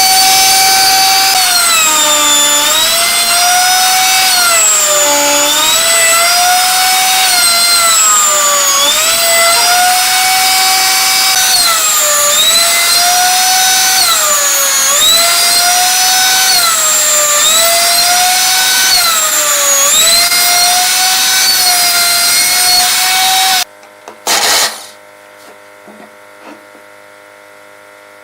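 A small electric motor of a power tool, such as on a homemade wood lathe, running with a high whine whose pitch sags briefly and recovers every two to three seconds. It cuts off abruptly near the end, leaving a faint hum and one short loud noise.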